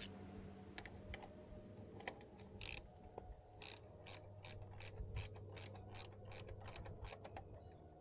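Ratchet wrench clicking as a fastener is worked. The sharp ticks are sparse at first and come at about three a second through the second half, over a faint steady low hum.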